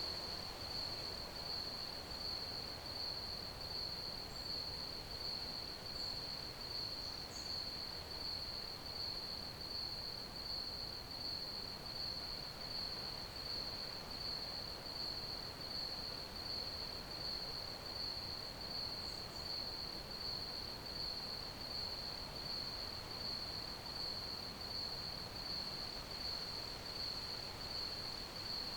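Crickets chirping in a steady, unbroken high trill that pulses evenly, over a faint background hiss.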